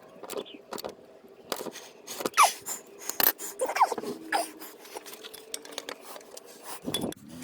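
Irregular clinking, tapping and scraping of metal, as of hand tools and exhaust parts being worked, with a couple of short squeaks a few seconds in.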